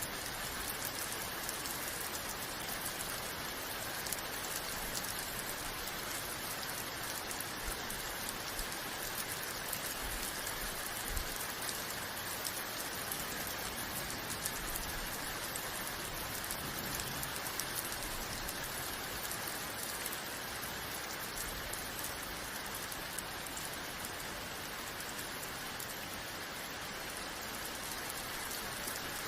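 Steady rain falling, a dense even patter of drops hitting a surface, with no change in intensity.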